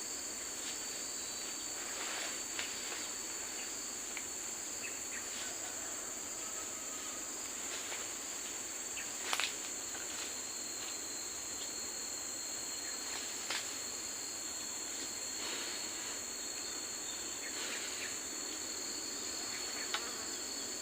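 Steady high-pitched chorus of forest insects, crickets or cicadas, shrilling without a break. A few sharp clicks or knocks cut through it, the loudest about nine seconds in.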